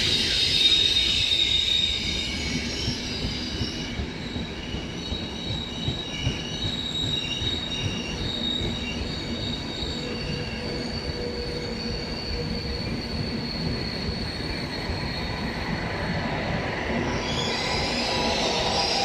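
Passenger train pulling into a station platform, its wheels and brakes squealing in several steady high tones over the rumble of the cars rolling past.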